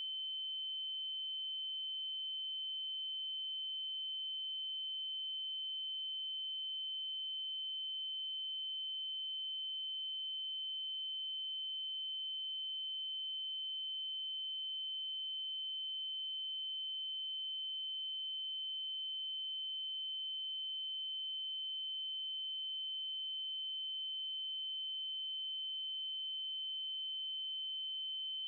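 Steady synthesized 3072 Hz triangle-wave tone: a single high, unchanging pitch with faint higher overtones.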